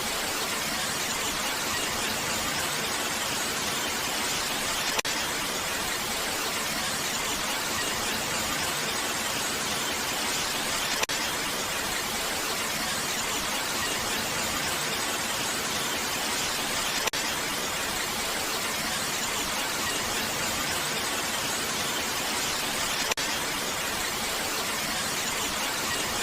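Steady, even hiss of rain falling, with a faint tick about every six seconds.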